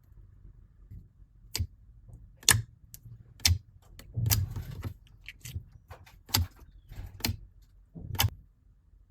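Slime being pressed and poked by hand, giving sharp clicking pops about once a second, with a longer crackling stretch about four seconds in.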